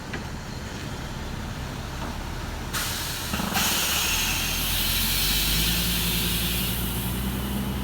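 Heavy diesel engine idling, then about three seconds in a sudden loud hiss of compressed air from the log truck's air brake system that lasts several seconds while the engine note rises.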